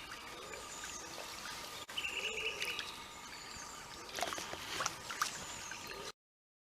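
Small sandstone gill stream trickling, with a brief high bird call about two seconds in and a few light clicks a little later; the sound cuts off suddenly near the end.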